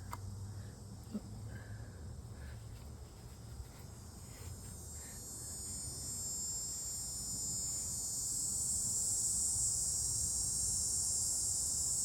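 Outdoor insect chorus: a steady high-pitched buzz that swells louder over a few seconds midway and then holds, with a low rumble underneath and a few faint taps near the start.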